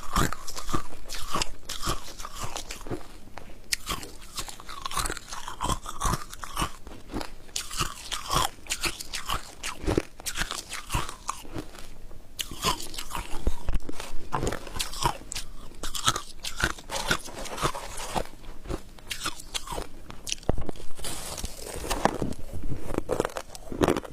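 Someone biting and chewing crunchy white freezer frost ice, with dense, irregular crunching throughout.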